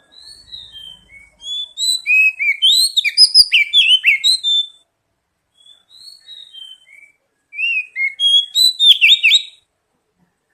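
Magpie-robin (kacer) singing varied, rapid whistled phrases with sliding notes. Soft notes lead into a loud burst of song about a second and a half in, softer notes follow, then a second loud burst near the end.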